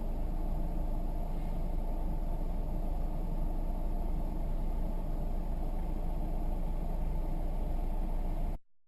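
Steady low rumble of a car's engine and road noise, heard from inside the cabin, cutting off abruptly near the end.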